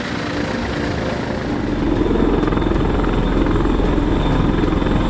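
Rotorcraft in flight: steady rotor and engine noise. About two seconds in the sound changes, the hiss falling away and a deeper, heavier hum coming up.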